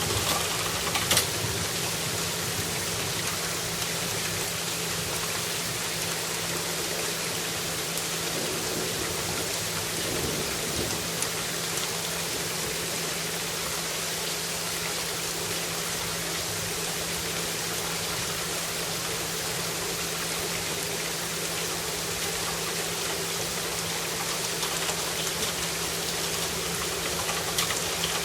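Steady rain falling, an even hiss with a couple of sharp drip clicks about a second in.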